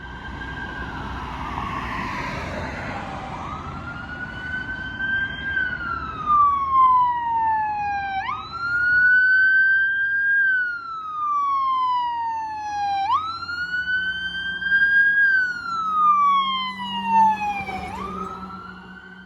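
Fire engine siren wailing as the truck responds. In each cycle the pitch jumps up sharply, then falls slowly, about every five seconds. Low engine and road rumble is heavy in the first few seconds.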